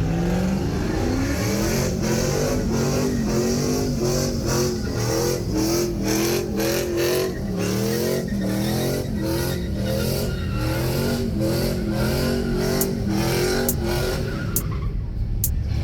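A car engine revving hard during a burnout, its pitch rising and dropping in quick repeated pulses of about two a second, over a steady hiss of spinning tyres.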